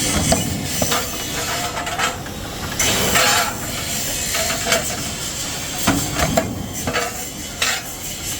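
Metalworking noise: irregular knocks and short ringing clinks of tools striking and scraping metal, over a steady hiss.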